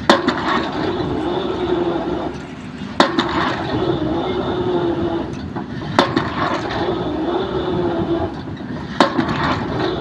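Excavator drop hammer striking a pile: four sharp blows about three seconds apart, over the excavator's engine running with a hum that rises and falls between blows.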